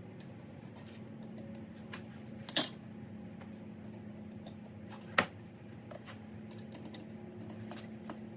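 Two sharp metallic clicks, about two and a half seconds apart, from needle-nose pliers working the small injector locking clips on a Volkswagen 2.0T engine's fuel rail, over a steady low hum.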